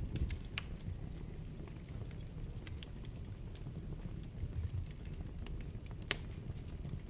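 Wood fire burning in a fireplace: a steady low rumble of flames with scattered sharp crackles and pops, the loudest pop about six seconds in.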